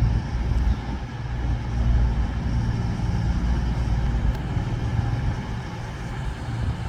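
Diesel train engine idling at the platform, a steady low hum.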